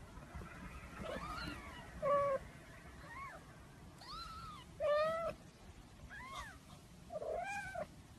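Kitten mewing repeatedly: about seven short, high-pitched mews, each rising and falling in pitch, the loudest about two and five seconds in.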